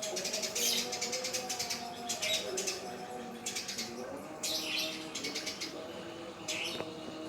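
Eurasian tree sparrow singing its rolling song: several bursts of rapid high chirps, each under a second long, with short pauses between them.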